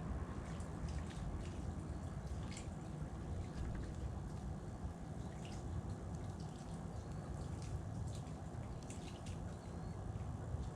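Scattered short, high chirps and ticks from small birds at sunflowers, irregularly spaced, over a steady low background rumble.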